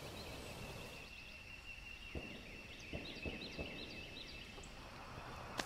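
Faint outdoor ambience: a run of short, high chirps from distant birds over a thin, steady high tone, with a few soft knocks in the middle.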